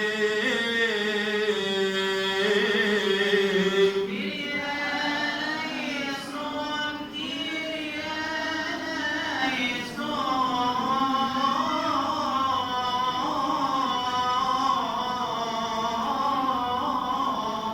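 A voice in Coptic liturgical chant, drawing a long melismatic line on a held vowel, the pitch sliding and stepping between notes without words.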